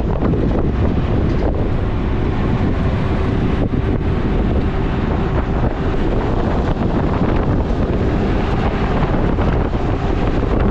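Steady, loud wind buffeting the microphone: a constant low rumble and rush.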